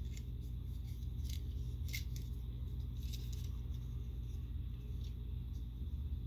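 A plastic Transformers toy being handled and turned, giving a few faint clicks and rubs of plastic parts over a steady low hum.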